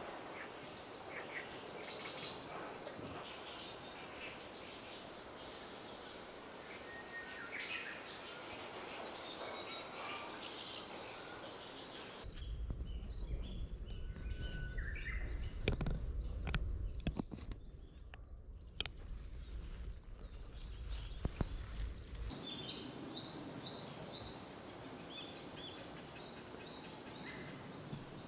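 Wild songbirds singing and calling, with short chirps and phrases over steady outdoor background noise. In a middle stretch the birds sit under a heavy low rumble and a few sharp knocks. Near the end one bird gives a run of repeated, quick rising chirps.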